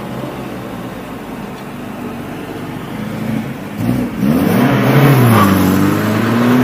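A motor vehicle's engine running steadily. About four seconds in it gets louder and its pitch rises and falls as it revs.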